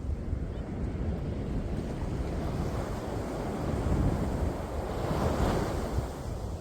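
Sea waves breaking on the shore, a continuous wash of surf with low rumble; a wave swells up and breaks with a rising hiss about four to six seconds in. Wind buffets the microphone.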